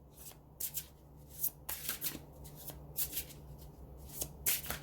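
Tarot cards being shuffled and handled by hand: a run of short, crisp swishes and snaps at uneven intervals, over a faint steady hum.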